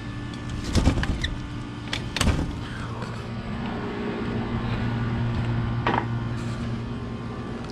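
A steady low mechanical hum, with a few sharp knocks or clicks over it.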